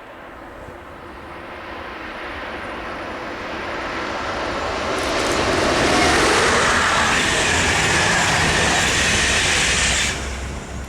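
A train approaching and passing at speed, the rumble and rail noise growing louder for about six seconds. It then drops away sharply about ten seconds in.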